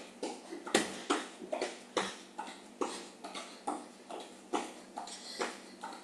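Jumping jacks: feet in running shoes landing on the floor in a steady rhythm, about two to three landings a second.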